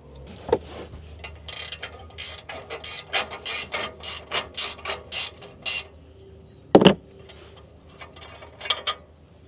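Hand ratchet clicking in a quick rhythm, about three clicks a second, as it is swung back and forth to back out an exhaust bolt. A single loud clank comes about two-thirds of the way through, and a few more ratchet clicks follow near the end.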